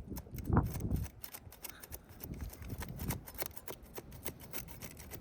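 Putty knife scraping and clicking irregularly under asphalt composition shingles as they are worked loose from their glued-down seal, with a louder knock about half a second in.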